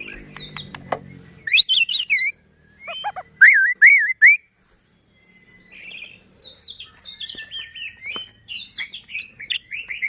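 White-rumped shama (murai batu) singing: a varied run of clear whistles, quick up-and-down warbling notes and short sharp chips, with a pause of about a second near the middle.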